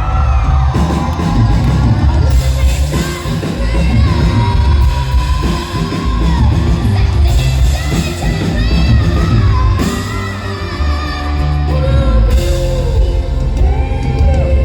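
Live rock band with a woman singing, recorded in a large hall: loud, bass-heavy and echoing.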